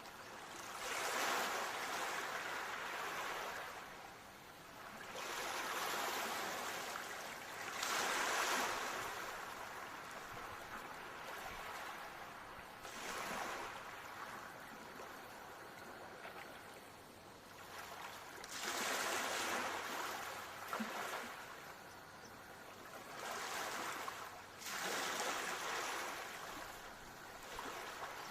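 Ocean waves washing in, the rushing hiss of each one swelling and fading away again every few seconds.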